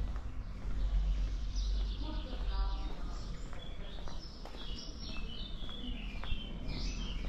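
Small songbirds chirping and singing in quick short notes, busiest in the second half, over a steady low rumble.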